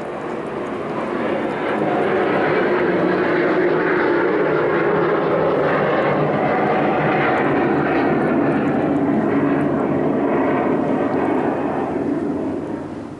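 A loud passing engine noise that swells over the first two seconds, holds steady, and dies away near the end.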